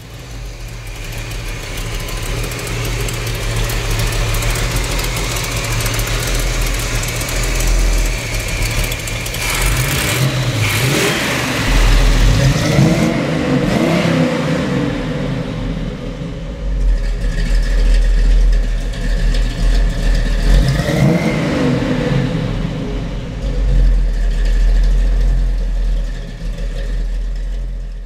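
1969 Chevrolet El Camino SS 396's 325 hp big-block V8 running, idling and then revved up and back down several times, most plainly about twelve seconds in and again about twenty-one seconds in.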